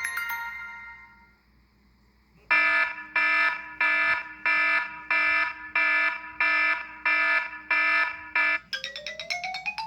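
iPhone 5S ringtone sounding an electronic alarm tone: a chord of steady beeps pulsing about twice a second, roughly a dozen times. It starts after a short pause that follows the fading last notes of a chiming tone. Near the end a quick run of notes begins, climbing steadily in pitch.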